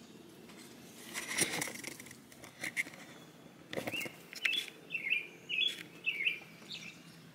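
A small bird chirping a quick run of about six or seven short calls, with a rustle and a couple of knocks just before it.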